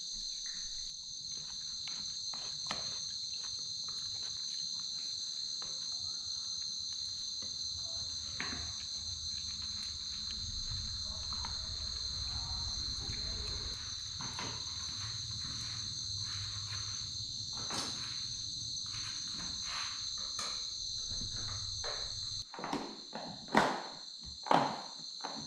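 Steady, high-pitched chorus of insects, crickets by their sound, with scattered short clicks and knocks throughout. A few louder knocks come near the end.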